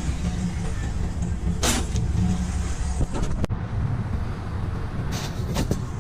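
A steady low rumble like a vehicle engine idling. Over it come a short rustle or scrape about two seconds in, a sharp click a little past the middle, and a few quick clattering noises near the end.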